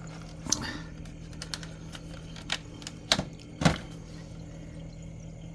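Refrigerator's rear machine compartment (condenser and fan) running with a steady low hum and no rattle, the condenser's loose mounting now damped by newspaper wedged under it. Several sharp clicks and taps of handling come over it in the first few seconds.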